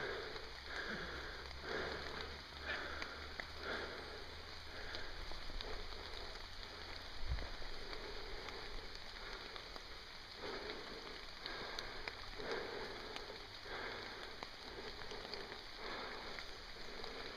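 Steady rain falling through forest leaves, with rustling and steps through the wet undergrowth at intervals.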